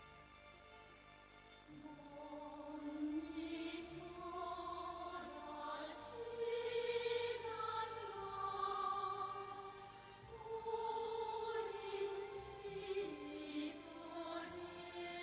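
Operatic singing in Korean: slow, sustained sung phrases set to music, entering about two seconds in.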